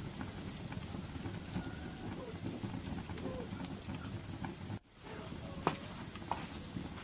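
Wood fire burning with a steady low rumble and scattered sharp crackles and pops. The sound cuts out for a moment about two-thirds of the way through, then returns.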